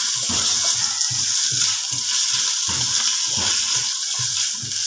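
Small chicken cubes frying with garlic in a pan, sizzling steadily, while a spoon stirs them in repeated strokes about two or three times a second.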